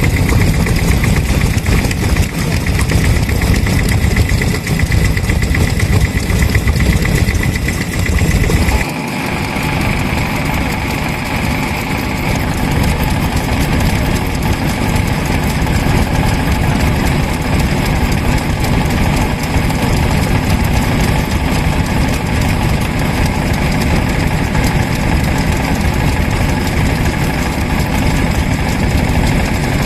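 Vintage stationary engines running steadily at a show. About nine seconds in, the sound changes abruptly to a different engine's running sound.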